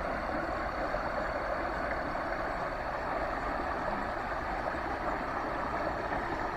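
Steady rushing of a creek running high and full.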